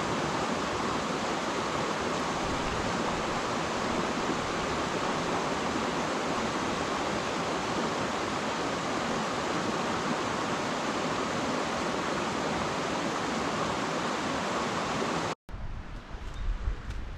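Steady rushing of falling water from a waterfall. About fifteen seconds in it cuts off abruptly, and a few sharp clicks or knocks follow.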